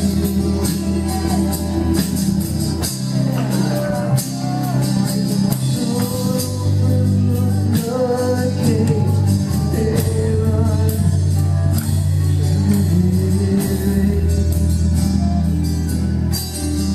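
Live worship band playing, with drums, guitar and keyboard under a singing voice that glides between held notes.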